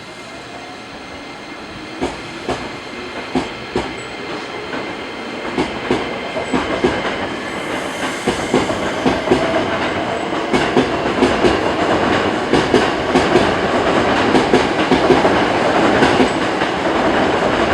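Hankyu electric train coming closer and running along the platform, its wheels clattering over rail joints in clicks that come faster and faster as the sound grows steadily louder.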